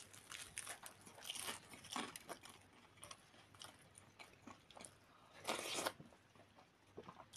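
Close-up mouth sounds of eating: soft crunching and chewing of crisp toasted flatbread, with small wet clicks. About five and a half seconds in, a brief louder slurp as a spoonful of soup is sipped.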